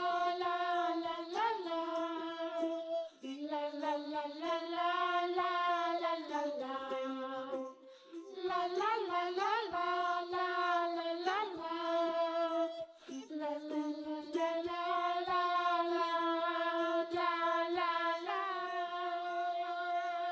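Background children's song: a high, child-like voice singing a simple melody in phrases of held notes.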